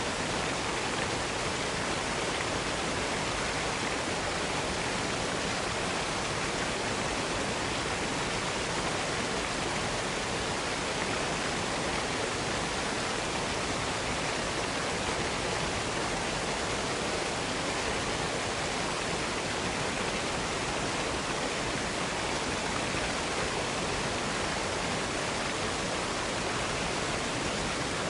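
Cascade waterfall: water falling and splashing in a steady, unbroken rush.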